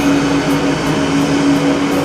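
Train running: a steady rumbling hum with one constant low tone.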